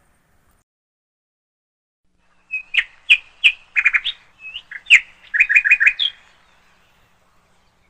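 A songbird singing a string of sharp high chirps and quick repeated notes. It starts about two and a half seconds in and stops about six seconds in, with silence on either side.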